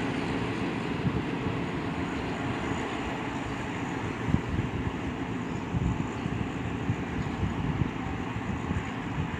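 Steady low rumble of a moving vehicle, with scattered short knocks from about four seconds in.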